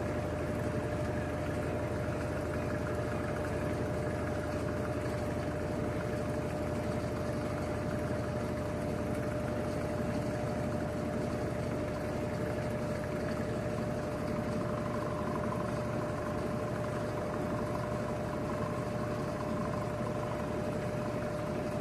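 Electrolux LTD13 washing machine in its spin cycle with a load of curtains: a steady whir with a constant whine, as the drum turns at an even speed. A second, higher whine joins about fifteen seconds in.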